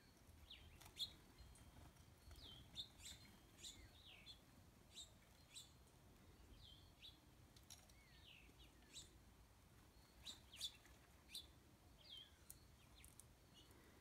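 Small birds giving faint, high chirps: scattered sharp chips and short downward-slurred calls, coming irregularly every second or so.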